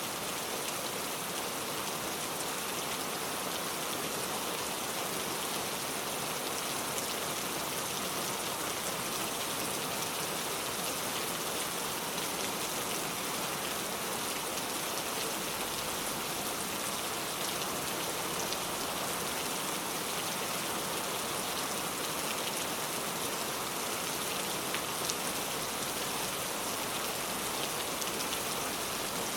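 Steady rain falling on a car, a dense even patter with scattered individual drop ticks.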